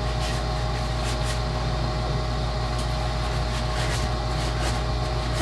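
A steady low machine hum with one constant whining tone, and faint short scratches every so often.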